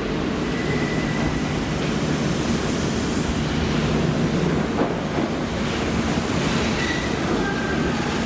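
Steady rumble of a train running, with a few faint, short high-pitched squeals.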